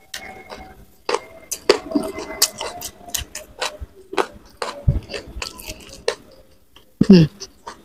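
Close-up mouth sounds of someone chewing raw leunca berries: many sharp crunches and wet clicks in an uneven rhythm. A brief low vocal sound comes about seven seconds in.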